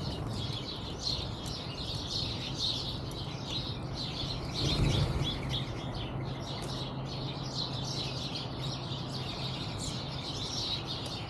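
Backyard songbirds chirping and twittering in a dense, continuous chorus of many overlapping high calls, over a faint steady low hum. A brief louder low rumble comes about five seconds in.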